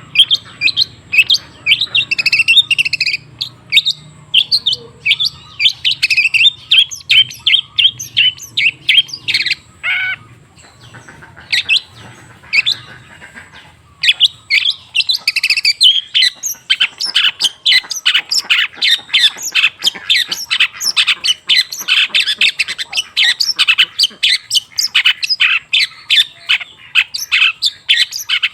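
Long-tailed shrike singing a fast, chattering run of short, high notes. The song thins to a few scattered notes for a few seconds in the middle, then picks up again, dense and rapid, to the end.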